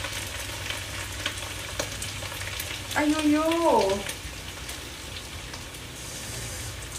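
Carrot strips sizzling in a hot wok, with scattered sharp crackles of spattering oil over a steady hiss.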